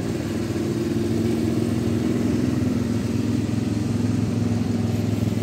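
Classic car engine idling steadily.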